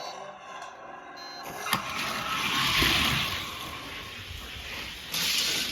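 Die-cast toy cars rolling down a track: after a click about a second and a half in, a rushing, rolling noise swells, eases off, then rises again near the end.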